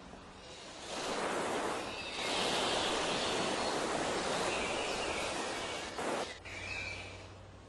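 Steady rushing roar of a train passing close by at speed, with no horn. It builds up about a second in and cuts off sharply a little after six seconds.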